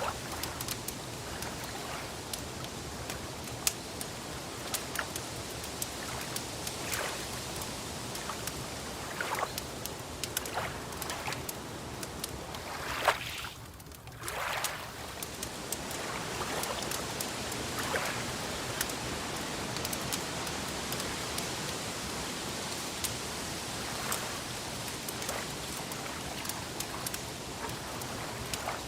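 Wood fire crackling, with scattered sharp pops over a steady wash of water like waves lapping at a lakeshore. The background wash drops out briefly about halfway through.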